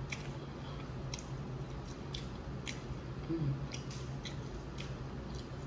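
Wet chewing and mouth sounds of someone eating a seafood boil, with sharp little clicks about once a second.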